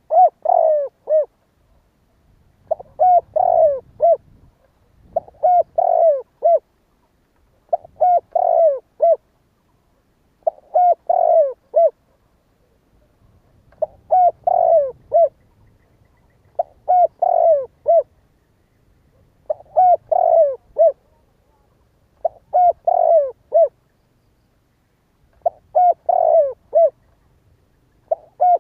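Spotted dove cooing its song over and over: a phrase of several quick, hooting coo notes repeated about every two and a half to three seconds, eleven times or so.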